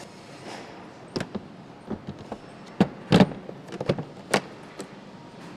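An irregular series of sharp knocks and clicks, about a dozen, over a steady background noise, with the loudest ones close together about three seconds in.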